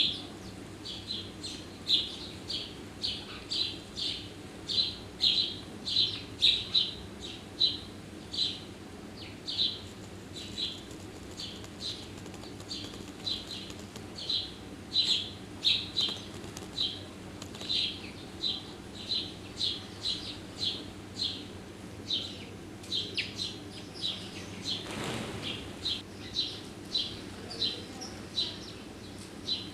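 Small garden bird chirping, short high notes repeated about once or twice a second. One brief whoosh sounds late on.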